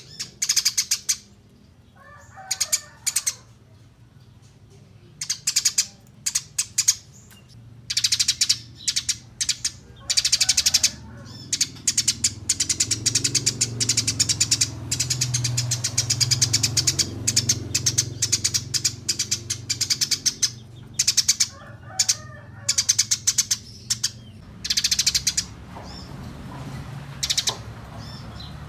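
Eurasian tree sparrows chirping: clusters of quick, sharp, high chirps every second or two, packed into a near-continuous run through the middle.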